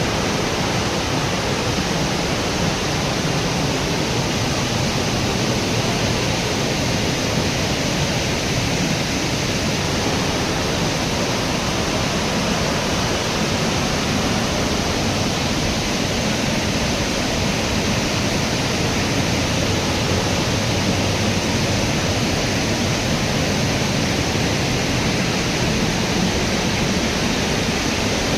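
Steady, loud rush of a large waterfall: water crashing down onto rock and pools.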